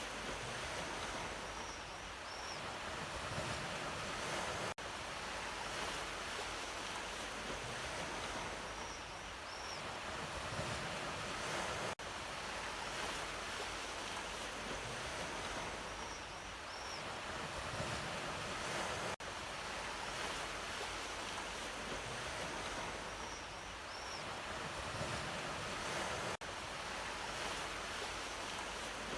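Ocean surf washing in steadily, swelling and easing. It is a short recording of waves repeated on a loop about every seven seconds, with a brief dip in level at each join and a faint high double chirp in each pass.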